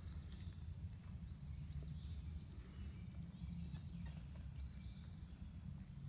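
A small bird's short, arched high chirp repeated about once every second or so, five or six times, over a steady low rumble.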